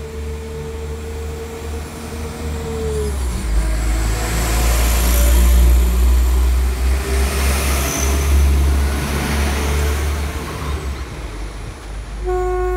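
Class 172 Turbostar diesel multiple unit passing close by. Its steady engine whine drops in pitch as it goes past, then a heavy rumble of engines and wheels peaks and fades as it runs away. A train horn starts a note near the end.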